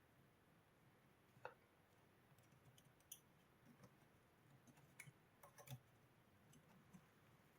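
Near silence broken by faint, scattered small clicks and taps, about a dozen at irregular intervals.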